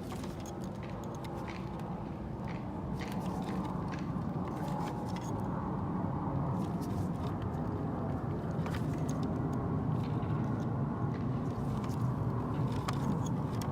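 A steady low rumble of background noise that slowly grows a little louder, with faint scattered clicks of small hand tools on the mirror's metal parts.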